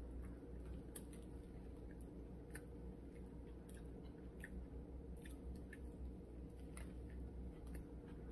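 A person chewing a sub sandwich with the mouth, faint, with scattered small wet clicks and crackles over a steady low hum.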